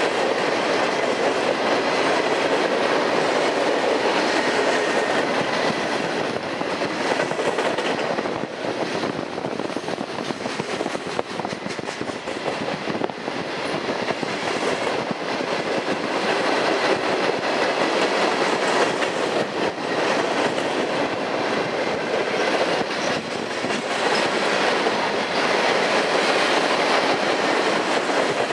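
Freight train's cars rolling steadily past: a continuous rumble of steel wheels on rail, easing slightly in the middle, with a faint steady high tone in the first few seconds.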